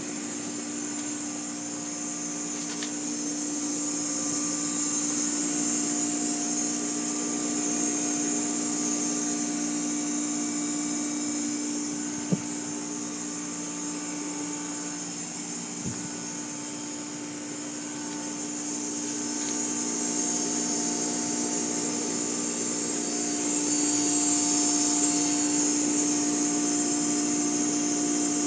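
Heat pump running with a constant high hiss over a steady low hum. The owner suspects a refrigerant leak, while an HVAC tech calls the hiss normal.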